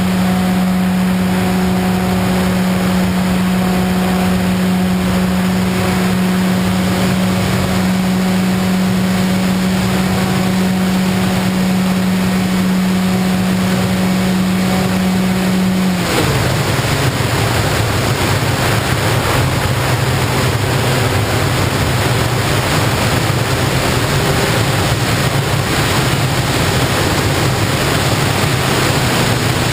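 RC FPV plane's motor and propeller running with a steady hum at constant throttle, cutting off about halfway through. After that only a loud rush of wind remains as the plane glides.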